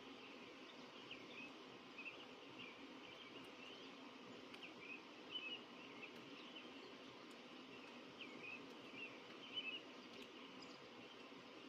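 Birds chirping faintly: short, high chirps scattered throughout, a little louder in a few spots, over a steady low background hiss.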